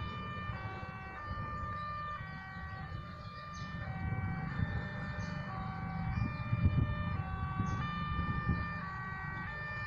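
Two-tone electronic warning alarm switching between a high and a low note about once a second, as at a railway level crossing. Under it runs the low rumble of a freight train rolling past, which swells with heavier knocks partway through.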